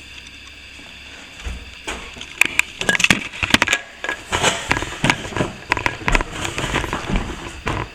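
A hand tool scraping and knocking at plaster along a crack, an irregular run of sharp clicks and scrapes starting about a second and a half in.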